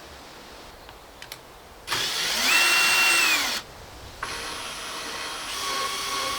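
Power tool motor running in two bursts: a loud run of under two seconds whose whine climbs, holds and winds down, then a quieter steady run that lasts to the end.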